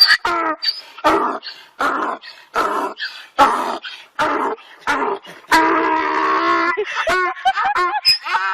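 A dog giving a run of short whining yips, about one every second, with one longer drawn-out call past the middle and quicker rising and falling yelps near the end.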